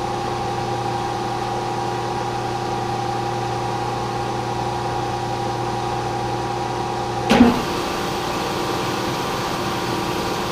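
Milling machine running with a steady hum. A single sharp knock comes about seven seconds in, after which the hum's tones shift slightly.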